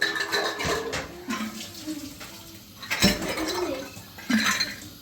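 Water running from a kitchen tap while dishes are handled at the sink, with a couple of sharp clinks of crockery about three and four seconds in.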